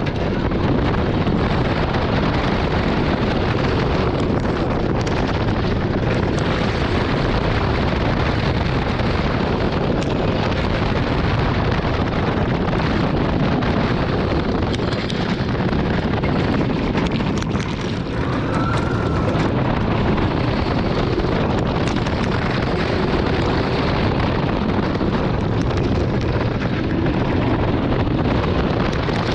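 Heavy wind buffeting the microphone over the steady rumble of the Wildfire wooden roller coaster's train running at speed along its track.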